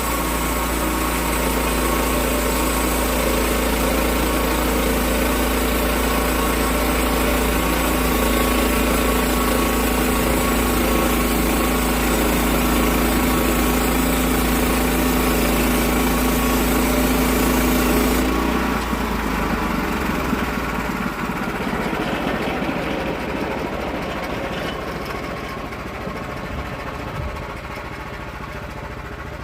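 Small gasoline engine of a log-milling saw running steadily. About 18 seconds in, its steady hum stops abruptly and a quieter, rougher running sound remains, fading slowly.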